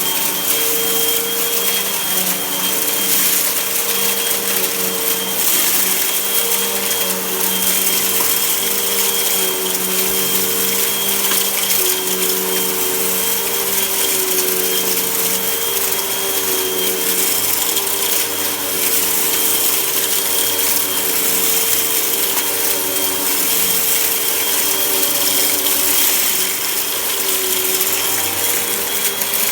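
Vacuum cleaner running steadily while sucking up dirt, its motor tone wavering slightly in pitch over a strong airy hiss.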